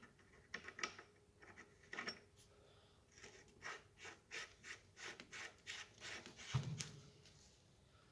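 Faint clicks of metal hand tools working on a Toyota Prius steering rack while its lock nut is fitted: a few scattered clicks, then a regular run of about three clicks a second, and a dull thump near the end.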